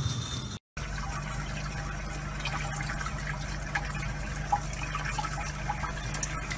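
Tap water running in a thin stream from a faucet into a basin, over a steady low hum, with scattered small ticks as a cat laps at the stream. A short silent break comes about half a second in.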